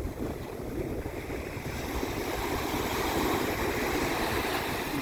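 Water washing and splashing, swelling louder about two seconds in, with wind buffeting the microphone.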